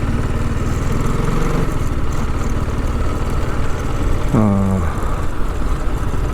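TVS Apache RR310's single-cylinder engine running at low, steady speed while the bike is ridden slowly through a town lane. A short falling tone cuts across it about four seconds in.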